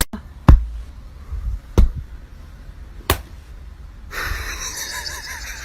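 A few sharp knocks, then a steady rushing noise from about four seconds in.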